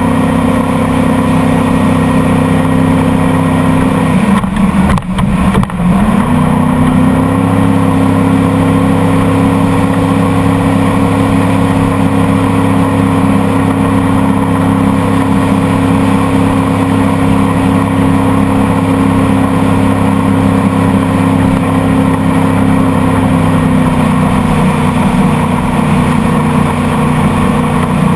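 Motorboat engine running steadily under way. About four seconds in the pitch drops as it throttles back, with a couple of knocks, then it climbs back up to cruising speed by about seven seconds.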